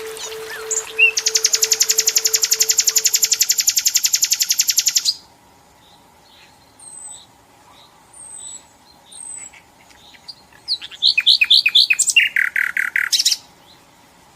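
Nightingale singing: a loud, very rapid rattling trill lasting about four seconds, then a few soft short notes, then near the end a loud run of repeated whistled notes.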